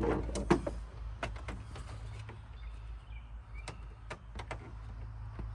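Scattered light clicks and taps of a screwdriver and plastic dash trim being handled, over a steady low hum.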